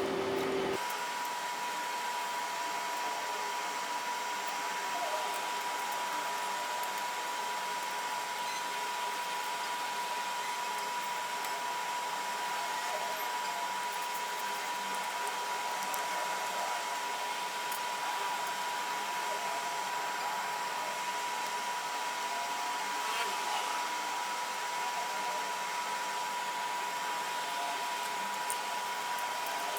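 A small electric motor and fan running steadily, giving an even blowing hiss with a constant high whine. The whine jumps up in pitch a little under a second in and then holds.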